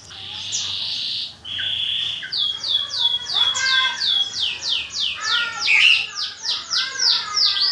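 Songbirds singing against each other in a song battle: a buzzy trill, then a long run of repeated down-slurred whistles, about three a second, with a second bird's notes overlapping in the middle.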